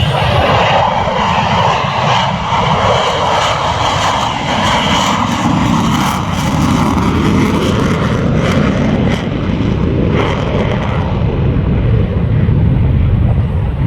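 F-35 Lightning II's single F135 afterburning turbofan at high power, throttles pushed forward for a carrier-style touch-and-go go-around. The loud jet noise drops in pitch about six to eight seconds in as the jet passes and moves away.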